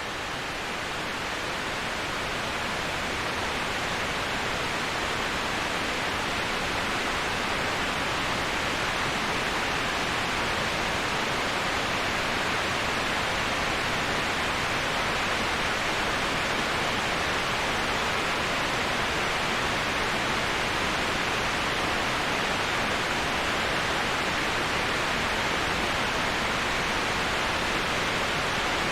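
Waterfall ambience: a steady, even rush of falling water with no other sounds, fading up over the first few seconds and then holding level.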